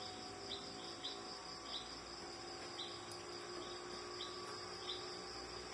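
Steady high-pitched insect trilling, typical of crickets, with short high chirps repeating irregularly about every half second to second, over a faint low hum.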